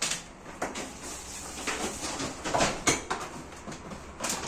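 Grocery items and their packaging being handled: a few irregular rustles and light knocks as things are picked up and set down.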